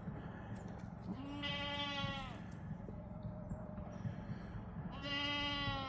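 Goat bleating twice, each call about a second long and held at a steady pitch.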